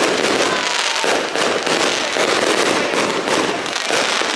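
Fireworks crackling continuously, many small bangs overlapping without a break.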